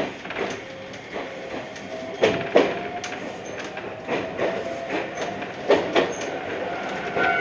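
Iyotetsu 3000-series electric train running along the track, heard from on board: its wheels clack over rail joints, the loudest strikes coming in close pairs twice, over a steady running noise with a faint whine that rises slightly in pitch.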